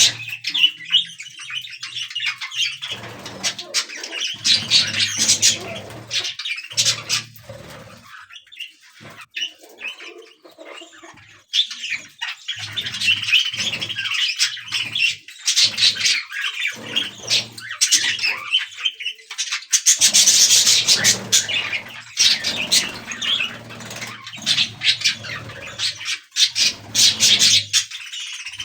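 Budgerigars chattering and chirping in a busy, continuous warble of short high notes, which eases off for a few seconds around the ten-second mark and then picks up again.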